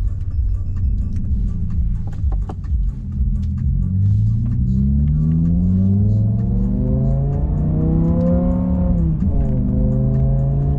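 BMW M6 E63's 5.0-litre V10 heard from inside the cabin: a low rumble, then revving up hard under acceleration for about five seconds, a sudden drop in pitch at a gear change near nine seconds, and pulling again in the next gear.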